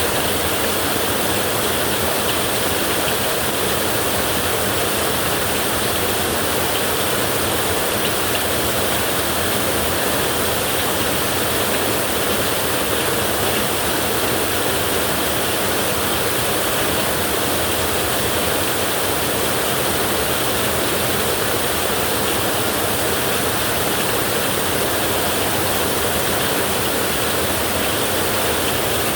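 Heavy rain falling on a tin roof, a steady, even hiss with no thunder.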